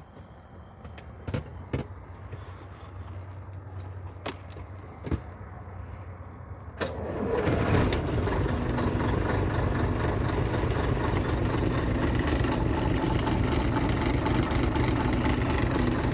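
A few clicks over a low hum, then about seven seconds in the 1994 Scania 113M truck's 11-litre six-cylinder diesel engine fires up and settles into a steady idle.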